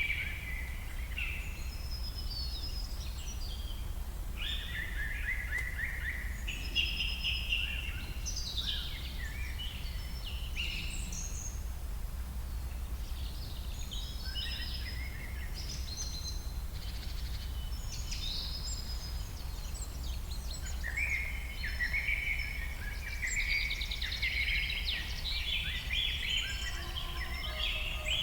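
Several birds calling and chirping, with short trills and whistles, densest near the end, over a steady low background rumble.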